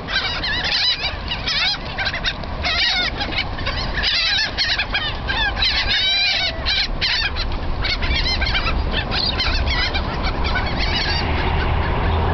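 A flock of seagulls squawking and crying over one another as they squabble over food thrown to them, a dense clamour that thins out near the end. A low steady rumble runs underneath.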